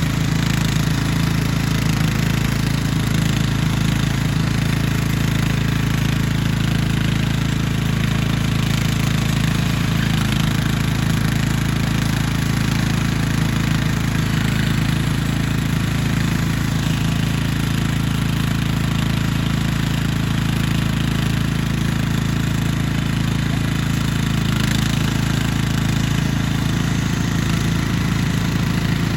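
An engine running steadily at idle, an even low hum with no change in speed.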